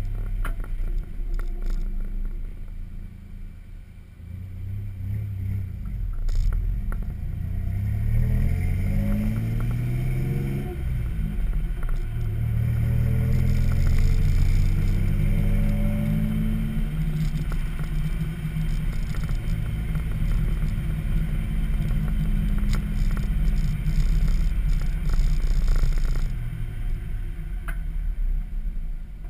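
Exhaust note of a naturally aspirated 3.4-litre 5VZ-FE V6 in a 1995 Toyota 4Runner, run through a Flowmaster 40 muffler and a 4-inch pipe. The revs climb, drop sharply about eleven seconds in, climb again, hold steady for about ten seconds, then ease off near the end.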